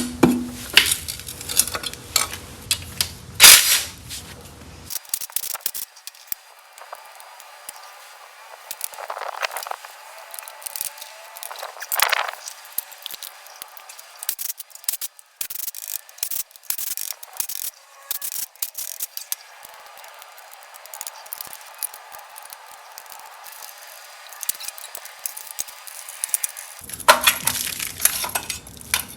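Hand tools and metal engine parts clinking and rattling in quick sharp clicks while a cylinder head is unbolted and removed from a VW Type 4 engine. The clicks are busiest in the first few seconds and again near the end, and sound thinner in between.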